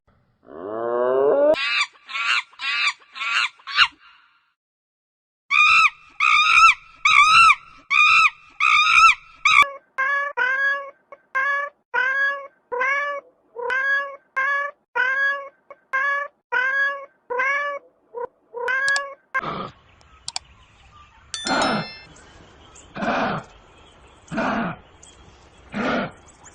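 An animal's short pitched cries, repeated about two a second in several runs with breaks between them, opening with one rising call.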